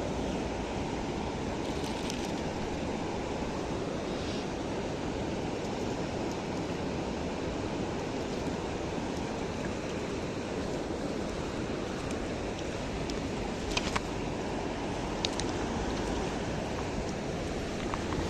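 Mountain river rushing over rocks in a steady, even roar of water, with two brief sharp clicks about three quarters of the way through.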